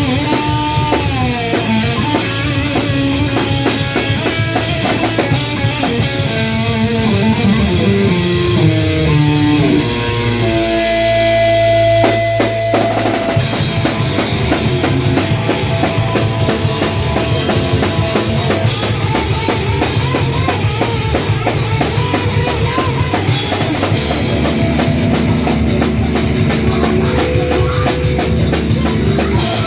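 Live rock band playing: electric guitar, bass and drum kit, with no singing. About ten seconds in, the drums drop out under a held bass note. Two seconds later the full band comes back in.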